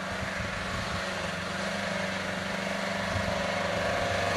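Off-road 4x4's engine running steadily as it drives slowly through a muddy track, growing slightly louder.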